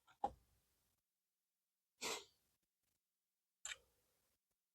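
Near silence, broken by a faint click just after the start, a short breathy puff about two seconds in, and another faint tick near the end.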